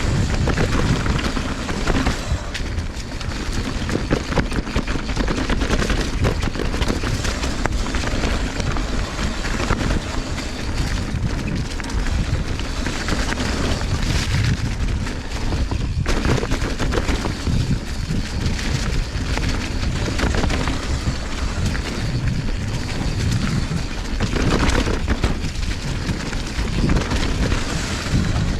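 Mountain bike descending a rough trail, heard through a body-mounted GoPro: steady wind buffeting on the microphone, with the tyres rolling over the ground and the bike rattling and knocking over bumps.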